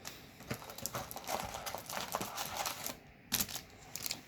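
Magic: The Gathering trading cards being handled and set down on a table: a quick run of light clicks and snaps, then a few separate taps near the end.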